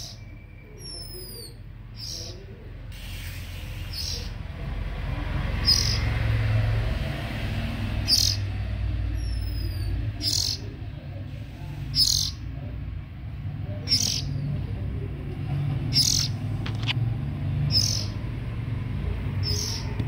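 Small birds chirping at a nest: short, high cheeps repeated about every two seconds, with a couple of thin descending whistles. A steady low rumble runs underneath.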